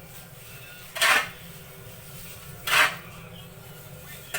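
Short scraping strokes through a sawdust mushroom-substrate mixture in a steady rhythm, three strokes about 1.7 s apart.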